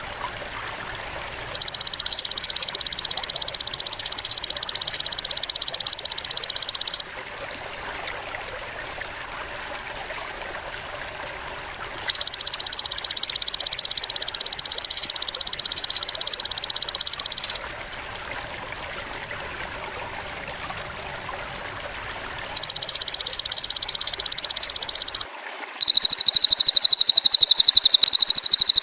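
Masteran songbird-training recording of cililin bird and belalang emas calls. It plays as three long, loud, high buzzing trills, each several seconds long with pauses between, then near the end a different, higher trill, all over a steady stream trickling in the background.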